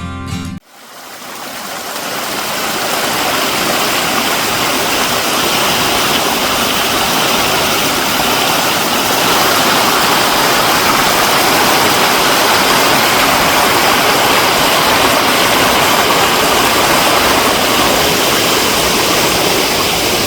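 Mountain valley stream running high after rain: a steady rush of flowing water that fades in about a second in and fades out near the end.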